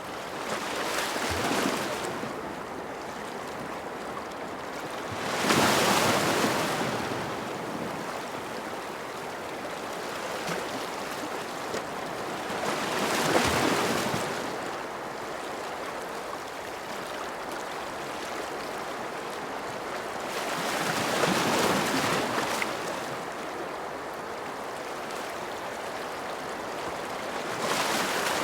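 Ocean waves breaking and washing in, a steady rush of surf that swells about every seven to eight seconds, five times in all.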